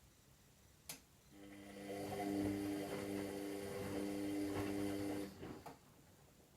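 Washing machine on a synthetics wash cycle: a click about a second in, then the drum motor hums as it turns the drum for about four seconds and stops, with a couple of light knocks as the drum settles. This is the stop-start tumbling of the wash phase.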